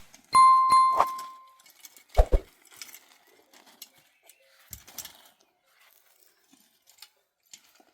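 A metal object ringing with a clear tone, struck about three times in the first second and dying away. Two dull knocks follow about two seconds in, then faint scattered clicks and handling sounds.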